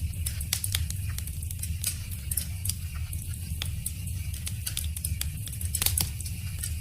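Wood fire crackling, with irregular sharp pops and snaps over a steady low rumble, and a louder pop about six seconds in.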